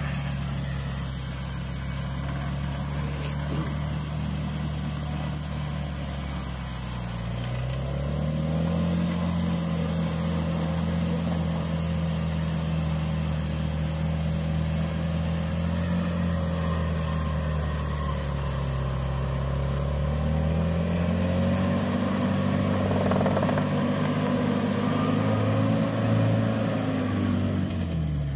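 Off-road vehicle's engine running with its revs held steady, climbing about seven seconds in, easing briefly, then climbing higher about twenty seconds in before falling away at the end.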